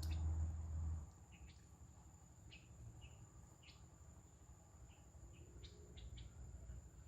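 Birds chirping in short, scattered calls over a steady high-pitched insect drone, with a low rumble in the first second.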